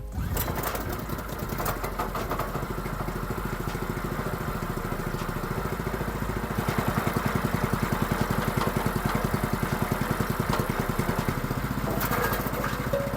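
Vitals Master petrol engine of a homemade wood chipper running with an even pulsing beat.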